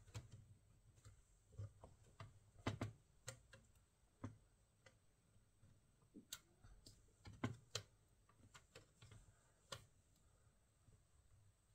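Faint, irregular clicks and taps, about a dozen scattered unevenly, the sharpest around three seconds in and again about seven and a half seconds in.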